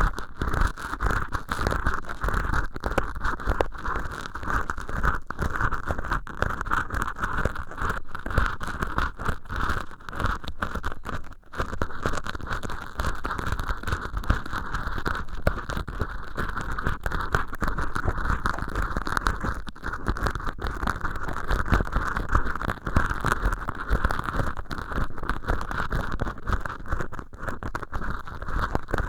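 An earpick scraping and rustling inside an ear canal made of acrylic scrubber sponge, an ASMR ear-cleaning sound heard in both ears. The scratching is dense, irregular and continuous.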